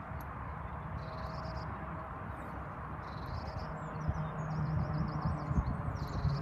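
Small songbirds chirping in short high calls, several times, one a rapid warbling run a little past the middle, over a steady low rumble.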